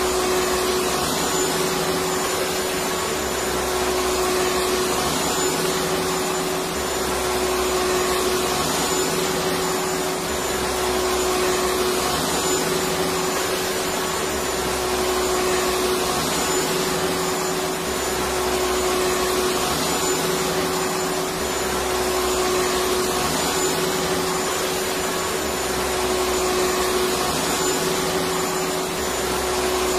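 Electric vacuum cleaner running steadily: a continuous rush of air with a steady motor hum and a faint high whine.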